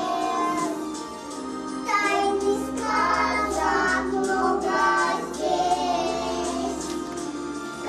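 A young girl singing a children's song over an instrumental backing track, the melody rising and falling in sung phrases.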